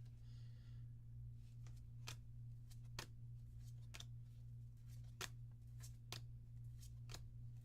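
Force of Will trading cards being flipped through one at a time from a freshly opened booster pack, a light card snap about once a second, over a steady low hum.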